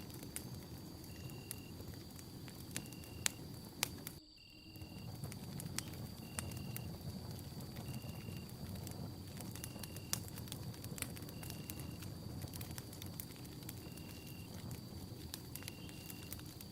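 Wood campfire burning with a low steady rustle and scattered sharp crackles and pops. A thin high tone holds throughout, and a short high chirp repeats about every second and a half. The sound drops out briefly about four seconds in.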